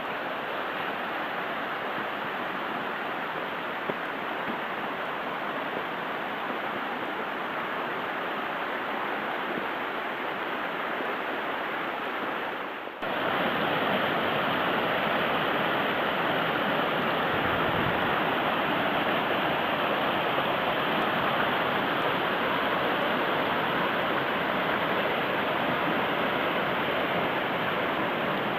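Steady rush of flowing water from a mountain stream. About 13 seconds in, it cuts abruptly to a louder, fuller rush.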